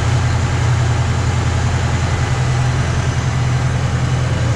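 1965 Pontiac GTO's 389 cubic inch V8 with Tri-Power carburettors idling with a steady low rumble through its dual exhaust. It runs evenly, as a healthy engine should, with no rise in revs.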